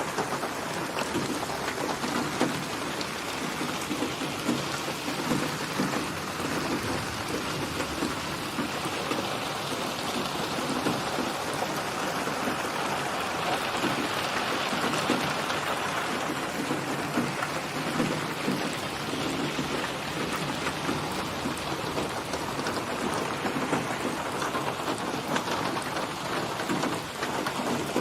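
Steady heavy rain with wind, swelling louder for a few seconds around the middle.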